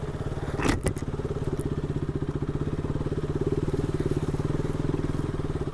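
Single-cylinder motorcycle engine idling steadily with an even, rapid pulse. A brief sharp noise cuts in just under a second in.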